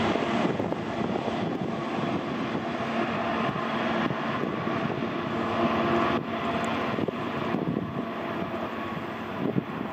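Freight train of loaded hopper wagons hauled by Class 66 diesel-electric locomotives, with their two-stroke V12 diesel engines and the wheels on the rails making a steady rumbling drone that slowly fades as the train draws away.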